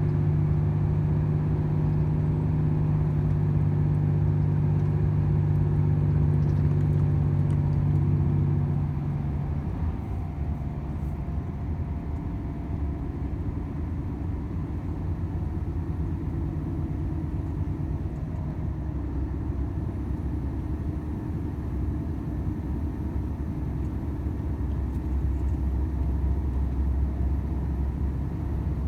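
Volvo FH 500 truck's 13-litre straight-six diesel engine running under steady load. About nine seconds in the engine note drops and softens as power comes off, leaving a lower drone with road noise. Near the end a deep hum builds again.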